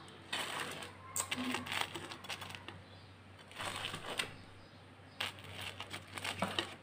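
Crisp breadcrumb crust of freshly fried bread empanadas crackling and crunching as metal tongs grip them and set them down on a wooden cutting board, in several short bursts of crackles.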